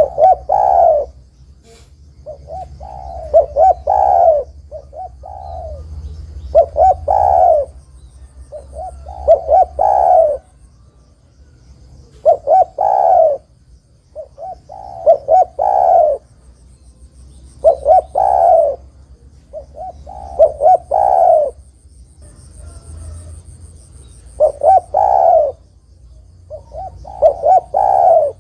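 Spotted dove cooing: a phrase of a few short coos ending in a longer, louder coo, repeated about every two to three seconds.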